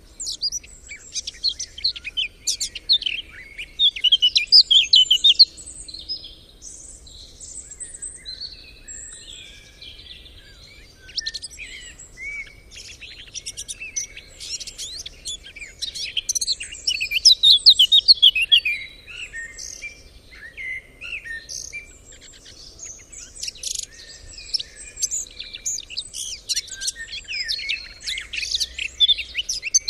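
Several songbirds singing at once: a dense chorus of quick overlapping chirps and trills, louder in spells.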